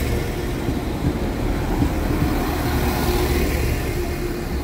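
Translink NI Railways diesel multiple unit moving along the platform close by, its diesel engine running with a steady low rumble.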